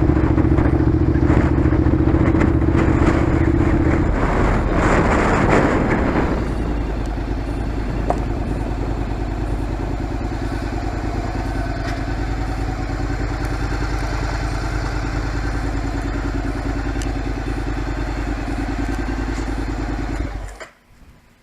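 Honda NC700X's parallel-twin engine running through an aftermarket exhaust while being ridden. It is louder and rougher for the first six seconds, then settles to a steady cruise, and cuts off suddenly near the end.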